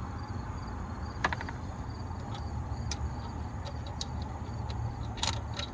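Scattered light metallic clicks and taps of hand tools against the alternator mounting, a small cluster about a second in and a sharper one near the end, over a steady low background rumble.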